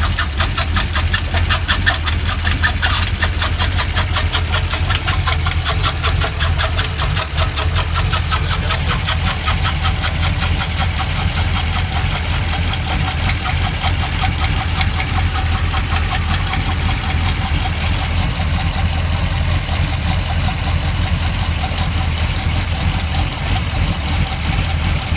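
Chevrolet Corvette C6 V8 idling steadily with a fast, even ticking over the engine note: the loud noise the owner believes is a bad lifter.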